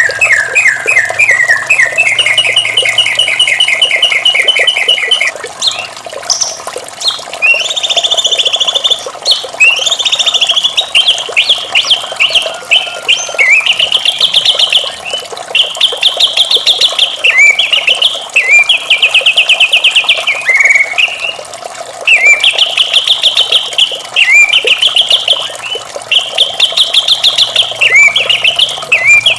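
White-rumped shama singing: a continuous run of rapid trilled phrases, each a fast string of repeated notes, with short breaks between phrases.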